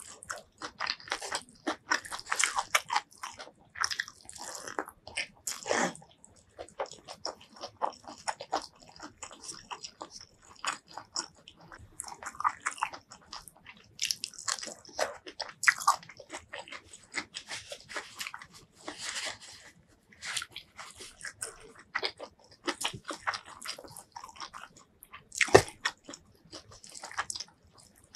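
Close-miked eating sounds: chewing and crunching of rice with fried roselle leaves and bamboo shoots, with wet squishing as fingers mix the rice. Irregular crisp crackles run throughout, with one sharp crunch near the end the loudest.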